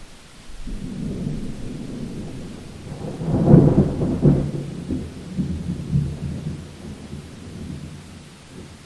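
Thunder rumbling in a rainstorm: a low roll builds, peaks in a loud crack-like burst about three and a half seconds in, then rumbles on and fades, over a faint steady hiss of rain.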